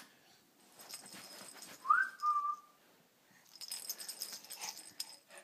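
A two-part whistle about two seconds in: a quick upward swoop, then a short note held a little lower. Rustling and rattling noises come before it and again near the end.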